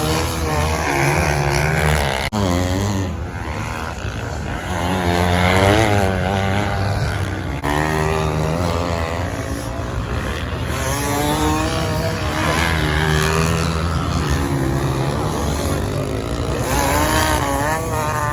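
Several racing off-road engines, from sand-racing motorbikes and quads, run hard and overlap. Their pitch climbs and drops again and again as they rev through the gears and pass by.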